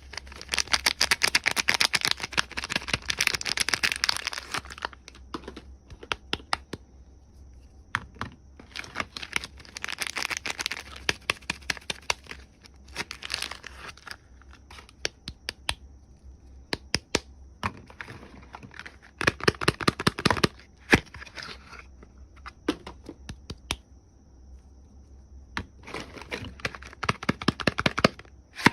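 Soap packaging crinkling and tearing as it is unwrapped by hand, in several bursts of dense crackling with quieter pauses between them.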